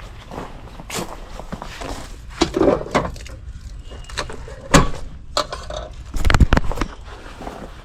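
Irregular knocks and clatter from equipment being handled, with a sharp thump about five seconds in and a quick burst of heavier knocks a second and a half later.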